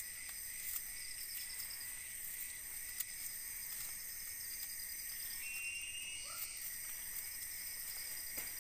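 Forest insects calling in a steady high-pitched chorus, with pulsing trills that start and stop over it. A few faint short knocks come through, a louder one about three seconds in and several near the end.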